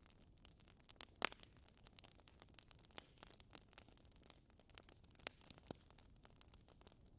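Wood fire crackling in a fireplace: quiet, scattered sharp pops and snaps at irregular intervals, the loudest about a second in, over a faint steady hiss.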